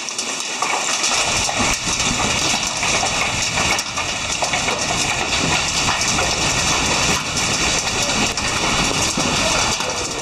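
Volcanic ash and grit falling like rain: a steady, dense rattle of many small hits.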